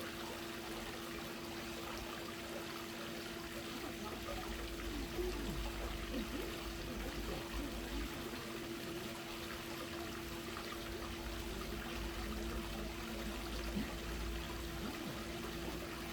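Swimming-pool water trickling and running steadily, with a steady hum underneath and a low rumble that comes and goes.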